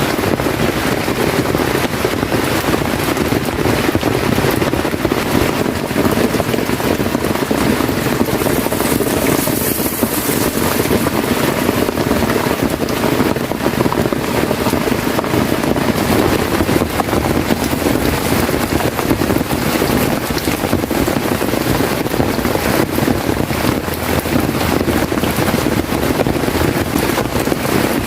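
Heavy rain falling steadily: a loud, dense, unbroken hiss with no let-up.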